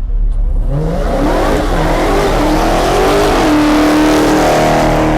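A car doing a burnout: just under a second in, the engine revs up, its pitch climbing for a few seconds and then holding at high revs, over the rushing noise of the spinning rear tyres.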